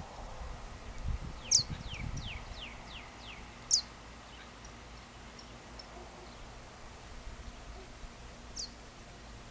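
Wild birds calling at dusk: a few sharp, high, down-slurred chirps spaced seconds apart, with a quick run of five or six falling notes about two seconds in. A low rumbling noise sits under the first couple of seconds.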